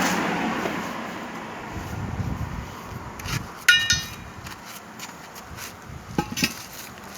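Two short, ringing metal-on-metal clinks about four seconds in, followed by a few lighter knocks near the end, as steel tyre tools strike a truck wheel rim. A passing vehicle fades away at the start.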